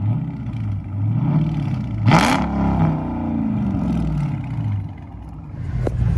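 Dodge Scat Pack's 392 HEMI V8 being revved in park through an exhaust with the mufflers and resonators removed. The throttle is blipped several times, with a loud sharp burst at the top of a quick rev about two seconds in, then the revs fall away slowly before rising again near the end.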